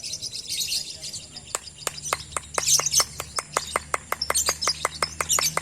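Lovebirds singing in fast chattering song: bursts of high chirping, and from about one and a half seconds in a rapid even run of sharp ticks about five a second.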